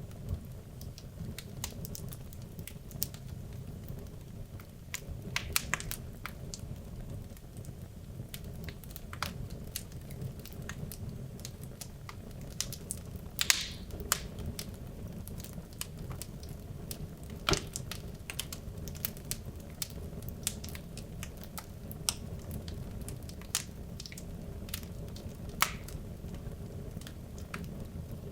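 Wood logs burning in a fireplace: a steady low rumble of flames with irregular sharp crackles and pops, two of them louder than the rest.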